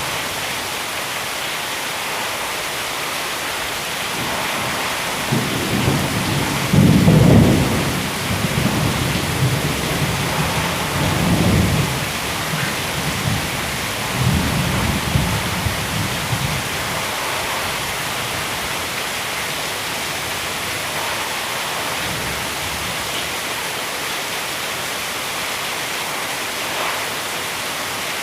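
Heavy rain falling steadily, with thunder rumbling low a few seconds in. The thunder is loudest early on its course and rolls on in several swells before dying away before the halfway point, leaving the rain alone.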